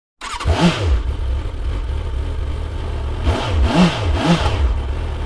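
Triumph Tiger 800's three-cylinder motorcycle engine idling, revved up and back down once near the start and twice in quick succession about three and a half seconds in.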